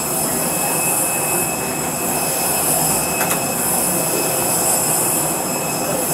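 Steady whine and rush of a parked airliner's jet turbines running, with several constant high-pitched tones over a broad rush of noise. A single faint click comes a little past three seconds in.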